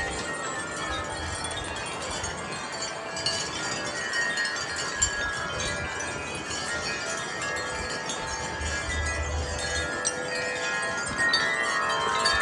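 Wind chimes ringing continuously in gusty wind, many tones overlapping. Low rumbles of wind on the microphone come and go, strongest about two thirds of the way through.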